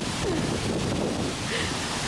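Steady rushing roar of a waterfall, with wind noise on the microphone.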